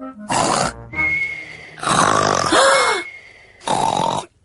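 Cartoon imitation of loud snoring: three rasping snore intakes, each followed by a thin, steady whistling breath out.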